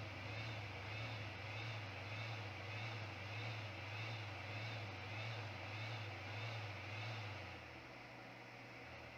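Hot-air soldering gun's blower fan running steadily with a low hum, then cutting out about seven and a half seconds in.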